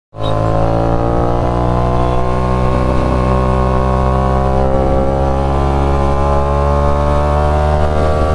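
Motorcycle with a new aftermarket silencer running loud at fairly steady revs, its exhaust note holding nearly one pitch. It cuts in suddenly at the start.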